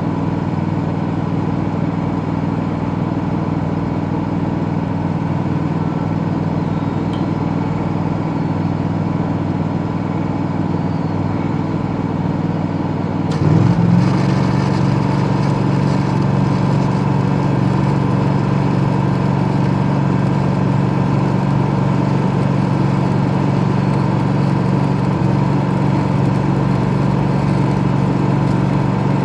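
Engine-driven welding machine running steadily. About halfway through, its engine note shifts and gets slightly louder, then holds steady under load.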